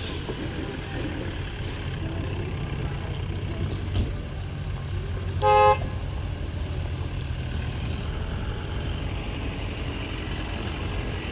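A vehicle engine running low and steady, with one short horn toot about five and a half seconds in.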